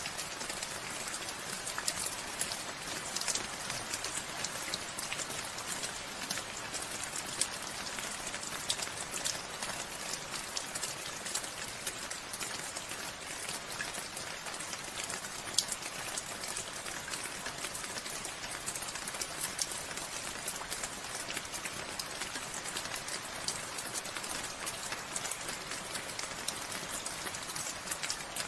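Steady rainfall, with a dense patter of individual raindrops striking a surface.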